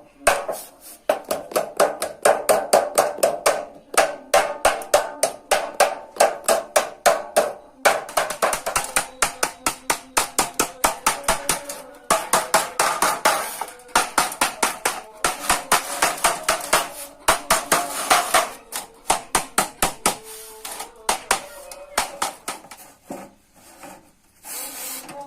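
Hammer blows on a steel sheet: rapid metallic strikes, about four or five a second, each with a short ring, broken by brief pauses. The blows grow sparser and weaker in the last few seconds.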